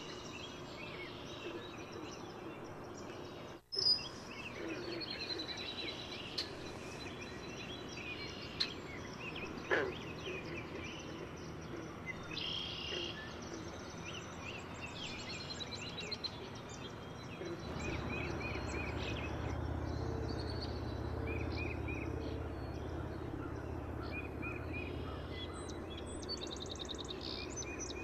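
Songbirds chirping and singing, short repeated calls and trills over a steady background hiss, with a brief break about 4 seconds in and a low rumble joining the background about two-thirds of the way through.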